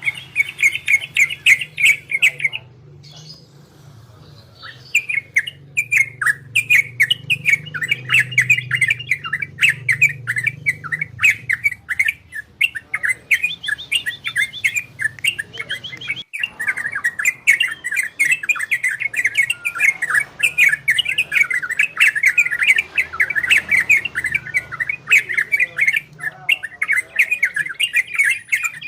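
Yellow-vented bulbul (trocokan) singing a fast, chattering run of short notes, the rolling 'ropel' and 'garudo' song styles that bird-keepers play to excite other birds. There is a pause of a couple of seconds early on, and the song then runs on without a break.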